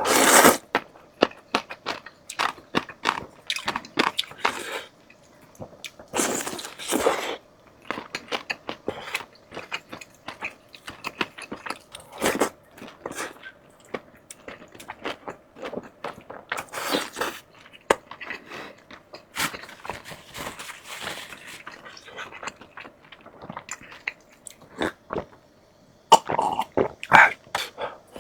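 Close-miked eating sounds: many short crunches and wet chewing clicks, with a few longer noisy stretches of about a second each.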